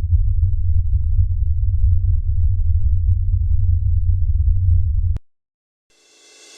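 A steady low rumble that cuts off abruptly about five seconds in, followed by a moment of silence; music with piano-like notes fades in near the end.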